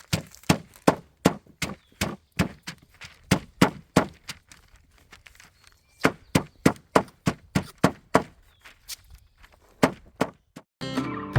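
Hammer strikes pounding flowers and leaves through wax paper onto paper, to press their colours out: quick repeated blows, about three a second, in runs with a short pause in the middle. Guitar music comes in near the end.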